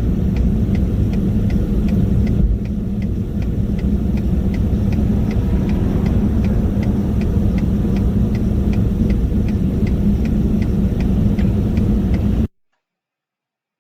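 Low, steady rumble of a vehicle on the move, with a light regular ticking about three times a second over it. Both cut off suddenly near the end.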